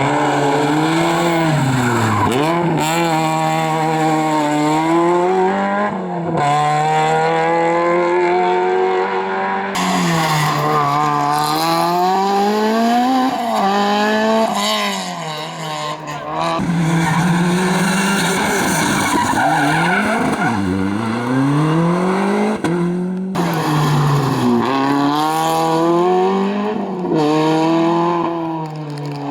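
Rally car engines at full throttle, the revs climbing and dropping sharply over and over with gear changes and lifts for corners. The sound cuts abruptly from one car to another every few seconds.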